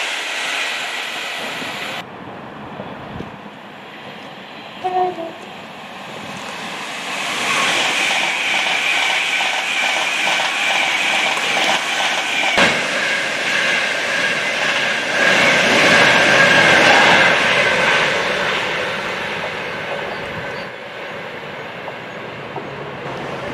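A train passing, its rail and wheel noise with a steady high whine building about seven seconds in, loudest past the middle, then fading near the end. A brief horn toot sounds about five seconds in.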